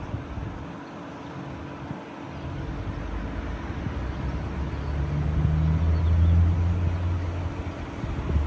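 A vehicle's engine running, a steady low hum under a wash of noise, swelling louder about five seconds in.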